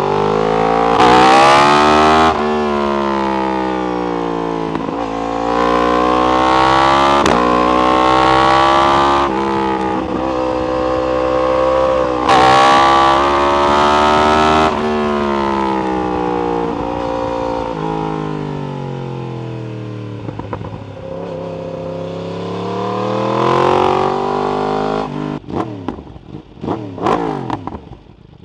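Yamaha R1 inline-four through an Akrapovic exhaust, accelerating hard: the engine note climbs and drops back sharply at each upshift, several times over. It then winds down for a few seconds, rises once more, and near the end gives a quick series of short throttle blips as the revs fall away.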